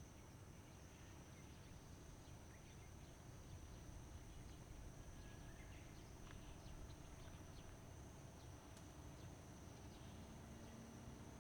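Near silence: faint outdoor ambience with a steady high-pitched hum and a few faint scattered ticks.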